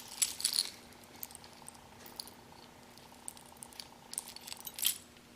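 Light clinks and rattles of broken aluminum piston pieces and piston rings being handled, in small clusters near the start and again about four seconds in, over a faint steady hum.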